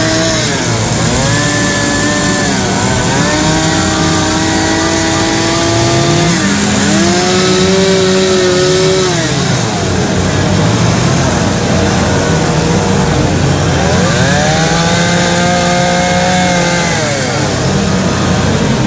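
Several two-stroke carving chainsaws running at once. Each repeatedly revs up into a cut, holds, and drops back toward idle, their pitches overlapping.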